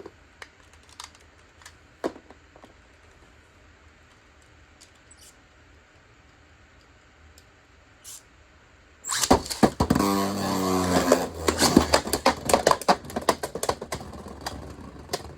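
Faint clicks, then about nine seconds in Beyblades are launched with ripcord launchers: a short whirr falling in pitch, followed by the spinning tops clattering against each other and the plastic stadium in rapid clicks that slowly thin out.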